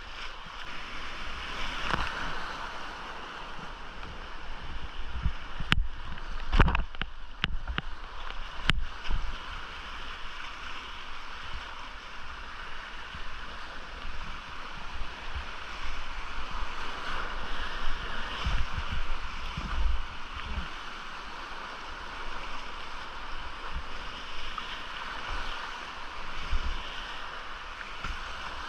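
Rushing creek whitewater, a steady hiss, heard close from a kayak. There are scattered low thuds, and a few sharp knocks come around a quarter of the way in.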